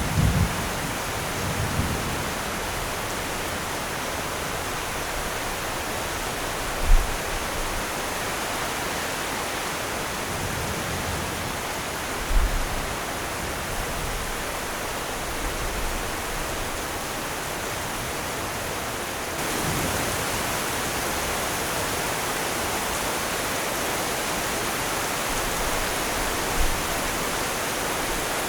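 Steady rain hiss, with a few low rumbles of distant thunder, the sharpest about a quarter and near halfway through. The rain gets a little louder about two-thirds of the way in.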